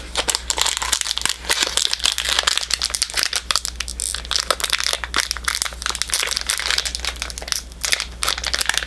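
Foil wrapper of a Pokémon booster pack being crinkled and torn open by hand, a dense continuous crackle with a struggle to get the pack open.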